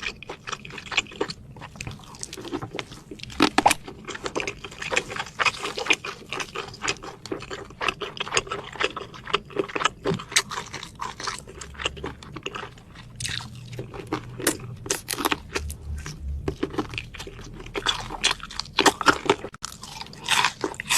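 A person chewing and crunching a chicken leg with cheese bread: a dense, continuous run of crackly bites and mouth clicks.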